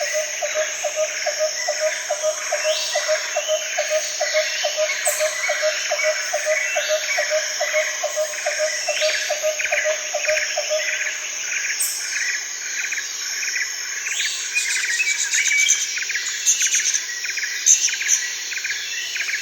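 Jungle ambience: a steady high drone of insects under many birds chirping and calling. A low note pulses about three times a second for the first eleven seconds or so, then drops out, and a run of faster, denser chirping comes in near the end.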